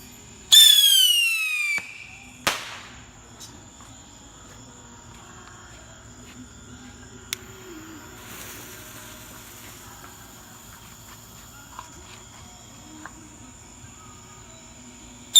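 El Toro Crazed Panic Screecher bottle rocket: a loud, high screeching whistle that falls in pitch for just over a second, followed about a second later by one small report.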